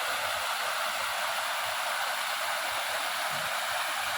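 River water rushing steadily over rocks: an even, unbroken hiss of flowing water.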